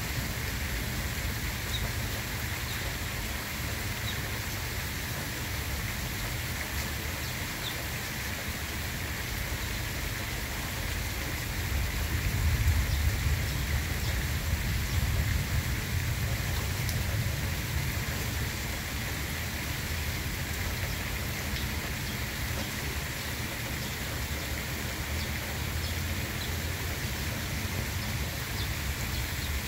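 Steady hiss of light rain, with a low rumble that swells for a few seconds around the middle.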